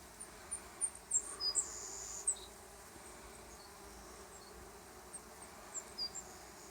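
Honey bees buzzing around a hive entrance, a faint steady hum, with a scatter of short high-pitched chirps over it.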